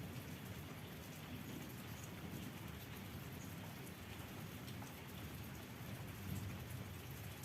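Light rain falling steadily, with scattered drop ticks and a low rumble underneath.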